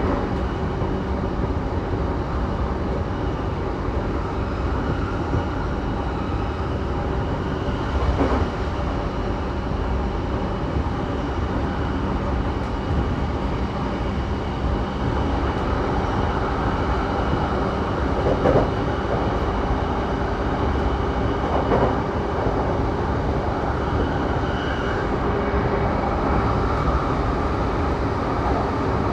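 Saikyo Line electric commuter train running between stations, heard from inside the passenger car: a steady rumble of wheels on rail under a constant motor hum, with a few brief knocks from the track.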